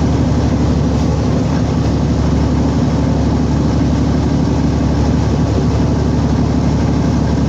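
Semi truck's diesel engine running with a steady, even low drone.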